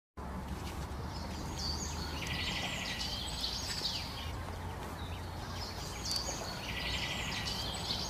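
A songbird singing the same trilled phrase twice, about four seconds apart, over a steady low outdoor rumble.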